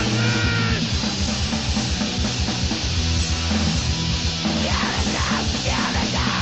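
Crust punk band recording: distorted guitars, bass and a drum kit playing loud and dense throughout.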